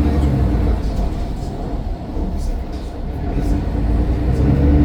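Mercedes-Benz Citaro O530 single-deck bus heard from on board, its engine and drivetrain rumbling steadily under way. The rumble eases off around the middle, then builds again toward the end as the bus pulls.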